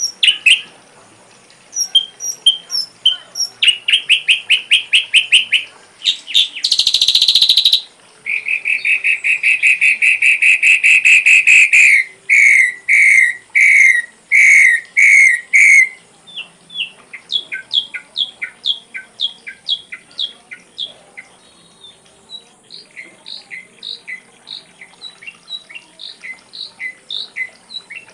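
Ashy drongo singing a varied song: chirps and fast trills, a harsh buzzy note about seven seconds in, then loud strings of rapidly repeated notes. It ends with a long even series of short two-part calls.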